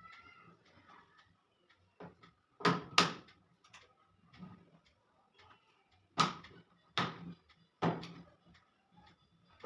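Five sharp knocks and clacks, two close together about three seconds in and three more later, with lighter clicks between them: hard parts and tools being handled and knocked together while a washing machine is put back together.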